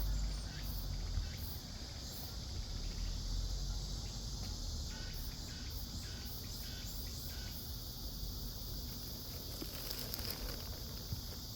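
Cicadas singing in a steady, high drone, with a higher pulsing buzz that comes and goes.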